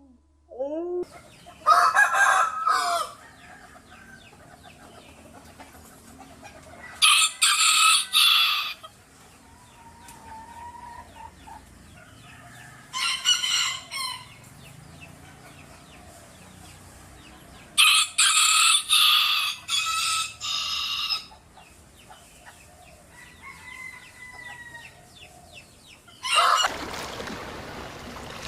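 A rooster crowing four times, each crow a second or more long, with quieter clucking between. Near the end a steady rush of noise takes over.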